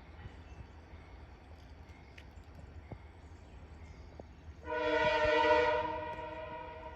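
Locomotive horn sounding one long blast that starts sharply about two-thirds of the way through and fades toward the end, over a low steady rumble.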